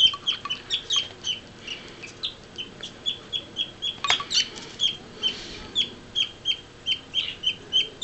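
Baby parakeet (budgerigar) chicks giving short, high begging cheeps over and over, about two or three a second, the cry they make when hungry and being hand-fed.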